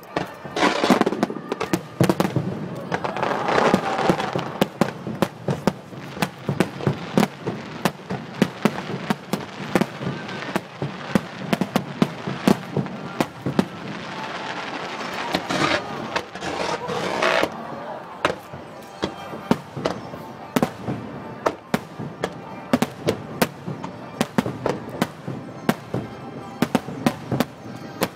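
A fireworks display: many sharp bangs of bursting shells in quick, irregular succession, over a constant crackling rush. The crackle grows denser about a second in and again from about fifteen to seventeen seconds in.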